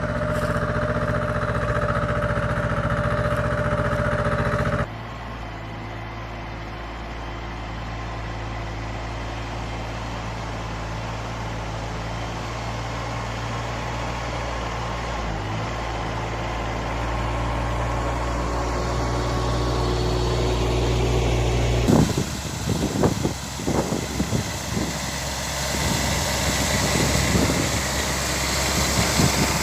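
Small mini tractor engines running steadily in three clips joined by abrupt cuts, about five seconds in and about 22 seconds in. The last clip is noisier, with uneven rises and dips in loudness.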